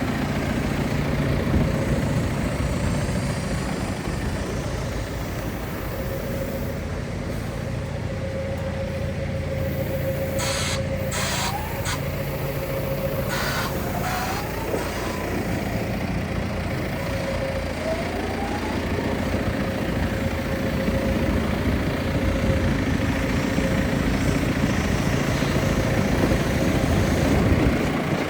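John Deere 6130M tractor's diesel engine running steadily, with a light whine. In the middle come a few short hisses and brief rising whines.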